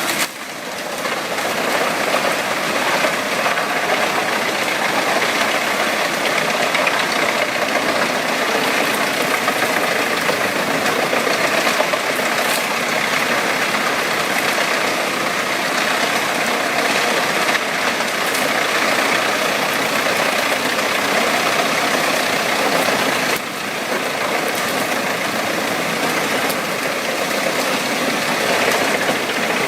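Engine-driven wood chipper running steadily. The sound drops suddenly about 23 seconds in, then carries on.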